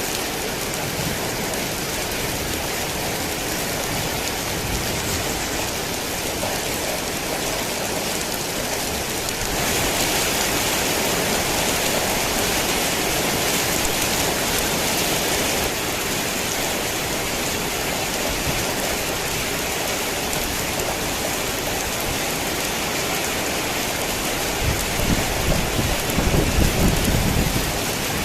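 Steady heavy rain, a downpour that swells louder for several seconds in the middle. Near the end, a low rumble of thunder rolls in under the rain for a few seconds.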